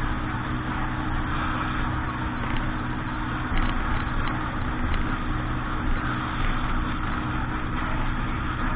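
A boat's engine running steadily at an even speed, with a constant hiss of water and wind over it.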